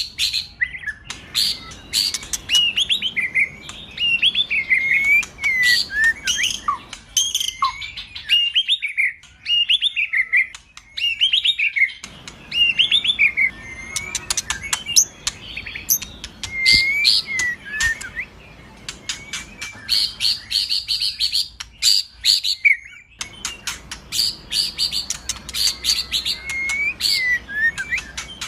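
White-rumped shama (murai batu) singing: varied whistled phrases with notes gliding up and down, mixed with sharp clicking ticks, a fast run of repeated notes about twenty seconds in, and short pauses between bouts.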